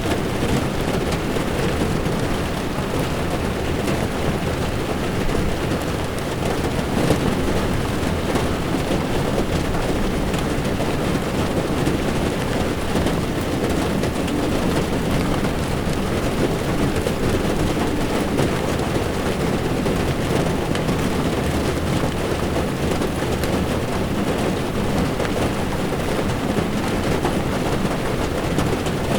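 Heavy rain pelting a car's windshield and roof while the car drives, with tyres hissing and rumbling on the wet road underneath: a steady, even wash of noise weighted toward the low end.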